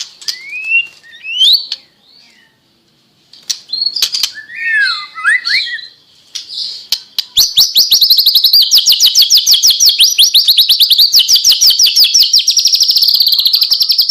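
White-rumped shama (murai batu) singing: a few varied whistled phrases and sliding notes with short pauses, then, about halfway through, a long, loud rapid-fire run of repeated notes, about ten a second, the 'tembakan' burst that keepers prize.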